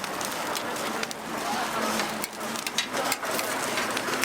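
Oil sizzling and crackling on a hot griddle as sorghum pancakes (수수부꾸미) fry, a dense steady hiss with scattered sharp ticks.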